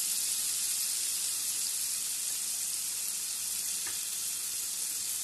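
Chopped onion and green capsicum sautéing in hot oil in a frying pan, a steady sizzle.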